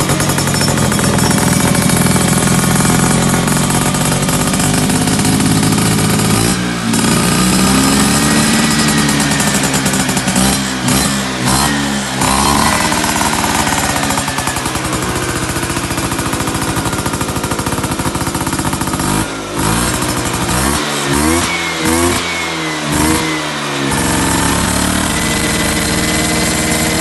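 Vespa PTS two-stroke single-cylinder scooter engine running loud through an aftermarket racing exhaust, held at a steady speed and then revved, with a run of short throttle blips in the second half.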